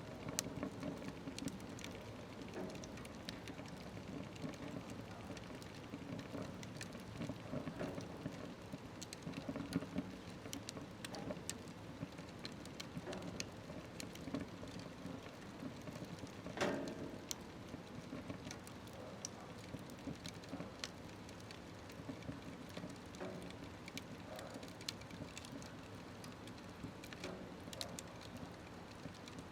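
Wood fire burning in a smokeless stove: a steady low rush of flame with scattered crackles and pops, and one louder crack just past halfway.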